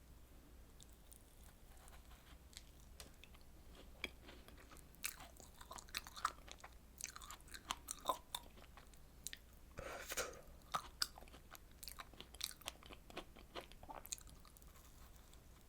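Close-miked eating sounds of a person chewing strawberry desserts: irregular wet mouth clicks and smacks, sparse at first and busier from about five seconds in, with a longer rustly chewing sound near the ten-second mark.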